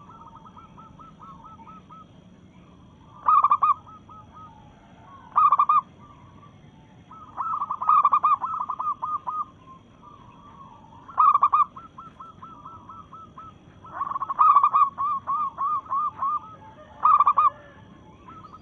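Zebra dove (perkutut) calling in full voice: loud short call notes every few seconds, with two longer runs of rapid repeated rolling coos between them. The bird is described as a female calling for a male.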